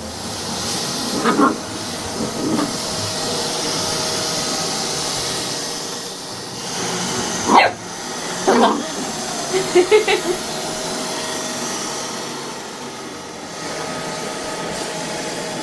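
Neato BotVac Connected robot vacuum running with a steady whirring hiss while a dog barks at it: single barks about a second in, near two and a half seconds and at seven and a half seconds (the loudest), then a quick run of short yaps around ten seconds in.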